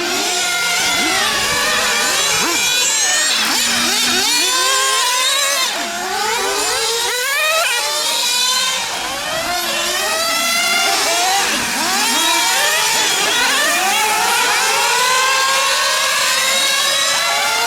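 Several nitro RC cars' small two-stroke glow engines revving up and down as they lap the track, their high-pitched notes overlapping and rising and falling every second or two.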